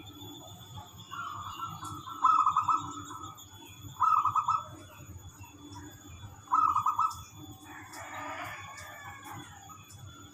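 Zebra dove (perkutut) cooing in short, loud trilled phrases, four in a row with pauses between. About eight seconds in comes a rougher, longer call of another kind.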